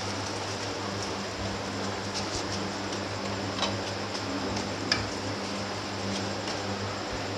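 Egg paratha frying in oil on a flat griddle, a steady sizzle as a spatula presses it, with a few sharp clicks of the spatula against the pan, the loudest about five seconds in. A steady low hum runs underneath.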